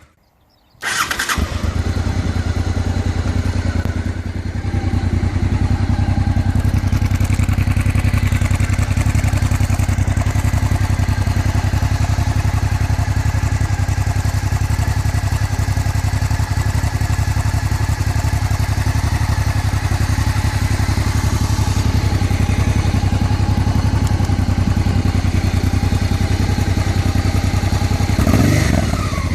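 Honda XRV 750 Africa Twin's V-twin engine starting about a second in, then idling steadily through an aftermarket or stock exhaust, with one short blip of the throttle near the end.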